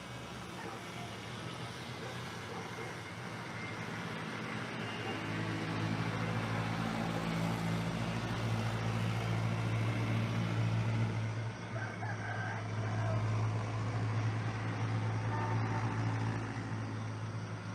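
A steady low engine hum that builds over several seconds, holds, then eases off near the end.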